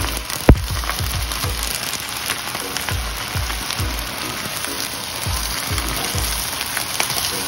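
Gai lan sizzling in a hot wok as it is stir-fried with a wooden spatula, over background music with a steady bass beat. A single sharp knock stands out about half a second in.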